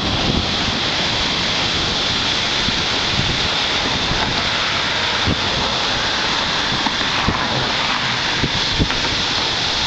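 Floodwater gushing out of the Olmos Basin Dam's outlets in a steady, even rush of water.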